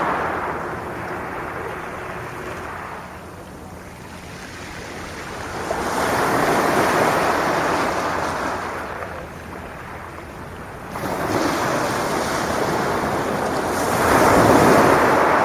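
Sea waves breaking and washing up the beach, rising and falling back in surges every few seconds.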